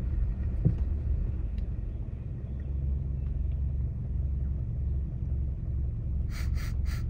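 Low, steady rumble of a car idling, heard from the driver's seat with the window open. A few short scratchy bursts come near the end.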